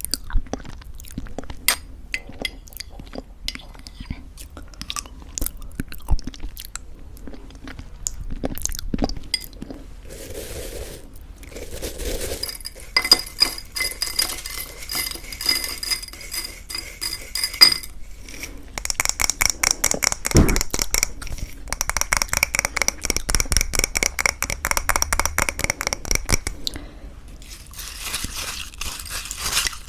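Close-miked eating of homemade granola in thick yogurt. Scattered clinks of a spoon against the dish come first, then from about twelve seconds in, crunchy chewing of the granola in quick, even strokes.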